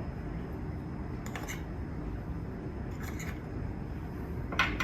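Three brief soft scrapes about a second and a half apart, the last the loudest, over a low steady hum.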